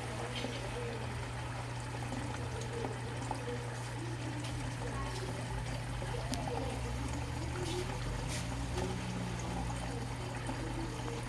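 Water trickling and pouring into a Miele W 759 front-loading washing machine during its fill, over a steady low hum.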